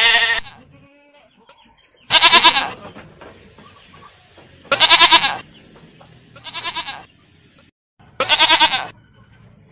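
Domestic goats bleating: five wavering bleats a couple of seconds apart, the fourth quieter than the rest. The last bleat comes from a young goat.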